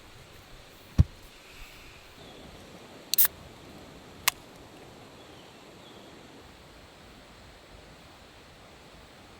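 A single dull thump about a second in, then a sharp double click about two seconds later and one more click a second after that, over a faint steady outdoor background: camping gear being handled.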